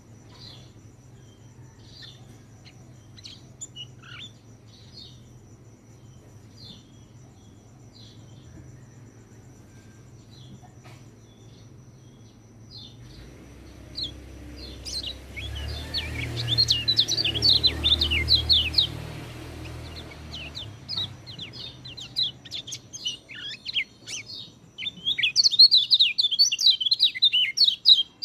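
Orange-headed thrush (peleci) singing: scattered short chirps at first, then a fast, loud run of varied notes about halfway through and another near the end. A low rumble sits under the first run.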